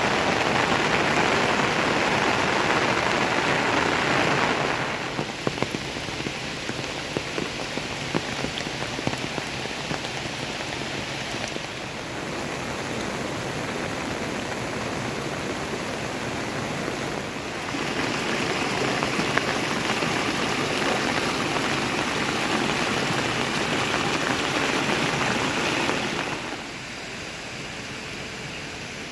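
Steady rain falling, louder and heavier at the start and again past the middle, with the sound switching abruptly between heavier and lighter stretches. Scattered single drop taps stand out in the lighter stretch.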